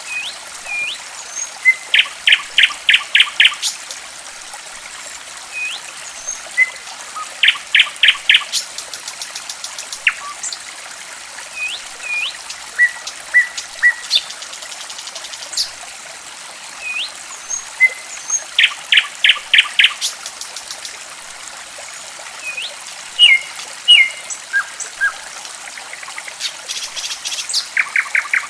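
Songbird calls over a steady trickle of running water. The bird gives loud bursts of about six evenly spaced notes, repeated every several seconds, with short rising whistles between them and a fast trill near the end.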